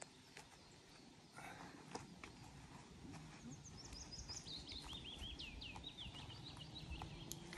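A small songbird singing faintly: from about halfway through, a run of quick high notes that steps down in pitch, over quiet forest background.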